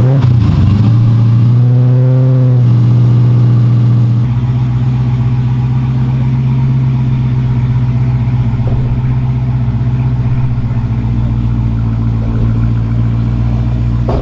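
Vehicle engine running just after starting, rising in pitch briefly about two seconds in, then settling into a steady idle with a deeper rumble from about four seconds in.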